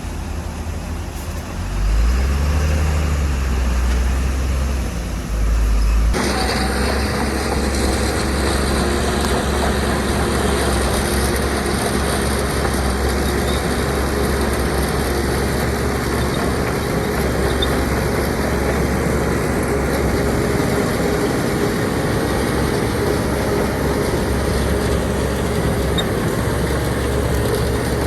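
Heavy diesel engine of earthmoving machinery running. The rumble swells about two seconds in, and about six seconds in the sound changes abruptly to a steadier, fuller engine noise with a hiss above it.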